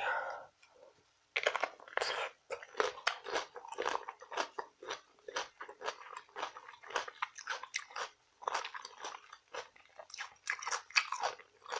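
Close-miked chewing: a steady run of quick, crisp crunches starting about a second in, with a short pause past the middle.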